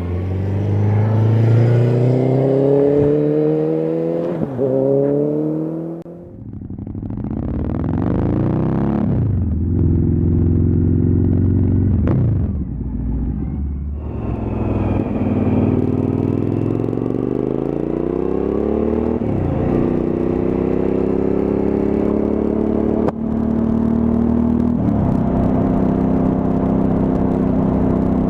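Suzuki V-Strom 1000 motorcycle's V-twin engine pulling up through the gears, its pitch climbing and falling back at each gear change, with an easing off about six seconds in before it accelerates again.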